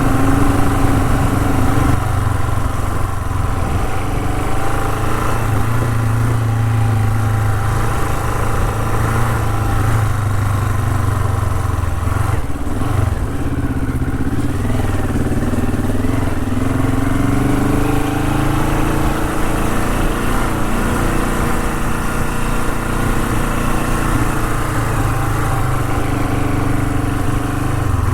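Honda CL450's parallel-twin engine running steadily under way, its pitch rising and falling as the throttle changes.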